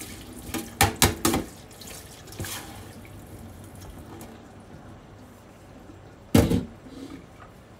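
Beef sizzling as it fries in a pot, a steady hiss, with a few sharp knocks: a quick cluster about a second in and a single louder one near the end.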